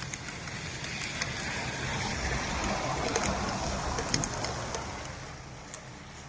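A vehicle passing on a rain-wet road: the hiss of tyres on wet pavement swells for a few seconds and then fades, over steady rainfall.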